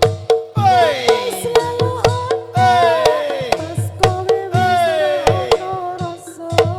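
Live Javanese folk music for a barongan/jaranan performance, played without singing. Sharp kendang hand-drum strokes keep a steady beat under a pitched melody instrument that plays three long downward-sliding phrases.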